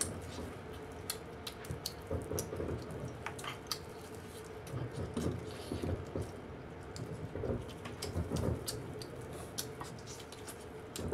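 Close-miked wet eating sounds from gnawing braised lamb trotters: soft chewing with frequent small wet clicks, lip smacks and sucking on the gelatinous skin and meat around the bone.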